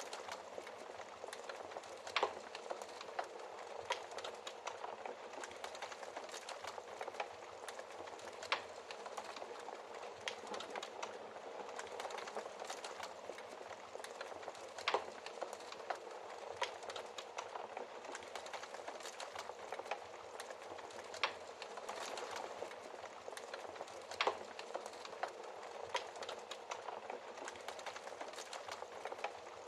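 Wood fire burning in a fireplace: a steady soft hiss with constant small crackles and a few louder pops.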